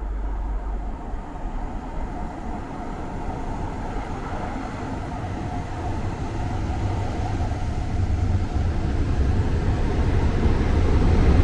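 West Coast Railways Class 47 diesel locomotive 47270, with its Sulzer V12 engine, approaching at the head of a charter train, the rumble and running noise growing steadily louder as it draws in.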